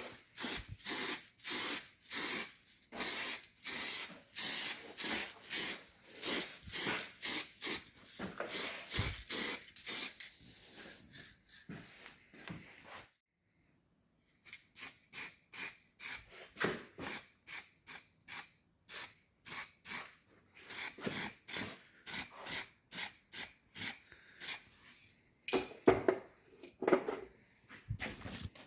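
Aerosol spray can hissing in quick short bursts, two or three a second, as paint or primer is sprayed on, with a brief pause about halfway.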